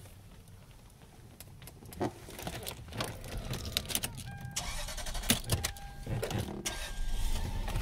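Car keys jangling and clicking at the ignition, a steady electronic chime tone coming on, then the engine cranking and starting, settling into a low idle near the end.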